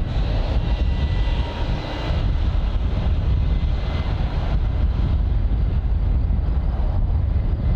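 Jet aircraft engines running at an airport: a steady deep rumble with a faint high whine.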